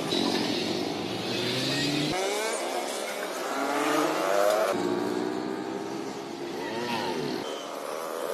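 Motor vehicle engine revving, its pitch rising and falling several times, with abrupt changes a few times as if separate bits are joined together.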